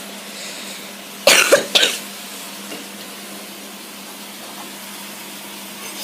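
A person's short cough about a second in, over a faint steady background hiss.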